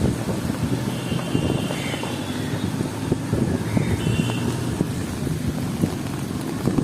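Gusty wind buffeting the microphone in a heavy cyclone rainstorm, an uneven low rumble with faint rain and street noise beneath.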